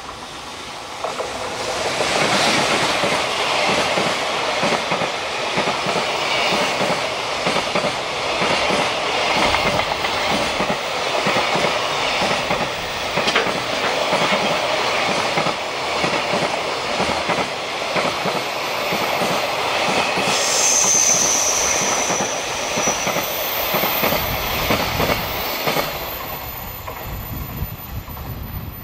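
JR Freight EF210 electric locomotive and a long string of Koki container wagons passing at speed. The wheels clatter steadily over the rails, with a brief high squeal about two-thirds of the way through. The noise builds quickly as the locomotive arrives and fades as the last wagons go by near the end.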